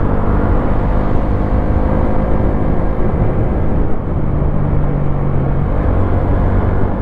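Wolf Classic 125cc motorcycle engine running under way, a steady engine note with road and wind noise; the note dips briefly about four seconds in and shifts before settling back.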